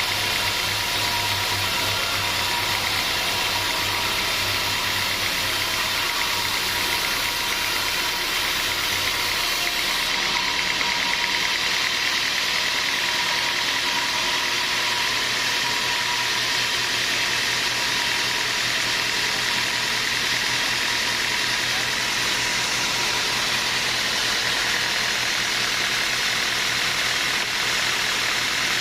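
Sawmill machinery running steadily, a dense continuous noise with a steady whine; its low hum shifts about a third of the way in.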